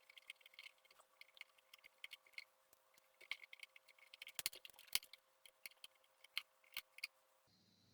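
Faint, irregular clicking and tapping from handling the RC airplane's small plastic parts and wiring, with a few sharper clicks around the middle, over a faint steady hum that cuts off near the end.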